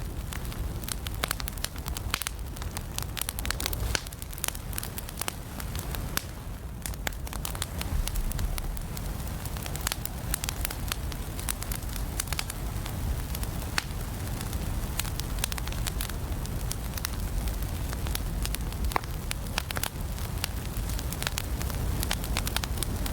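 Wood fire burning in a fireplace, with a steady low rumble of flame and frequent sharp crackles and pops from the burning logs.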